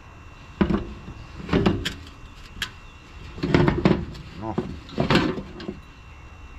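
A run of uneven metal clanks and knocks from scrap air-conditioner parts being struck and handled, some ringing briefly, with the loudest cluster a little past the middle.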